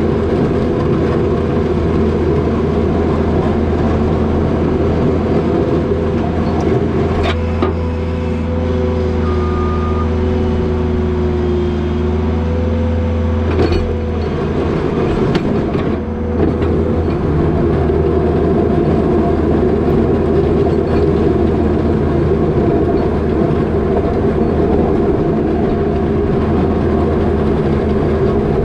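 New Holland L220 skid steer's diesel engine running steadily under work. A steady whine rides over it through the middle, and there are a few sharp knocks, about a quarter, half and three-fifths of the way through.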